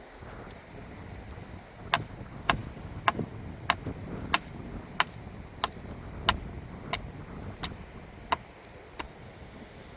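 Twelve sharp, evenly paced knocks, about one and a half a second, beginning about two seconds in and stopping near the end, over a steady low rumble.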